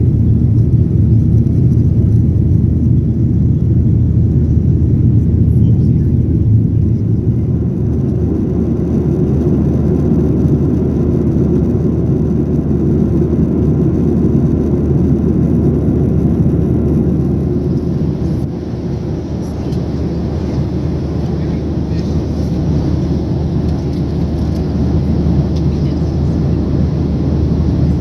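Cabin noise inside a Boeing 737-800 airliner: a loud, steady low rumble of the jet engines and airflow. It eases slightly about two-thirds of the way through and then builds again.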